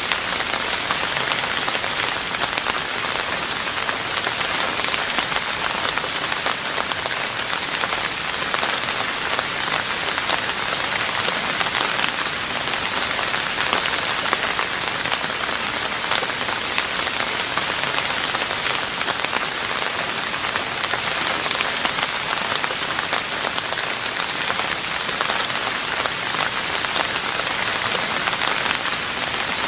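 Steady rain falling on a roof, a dense, even patter of many drops.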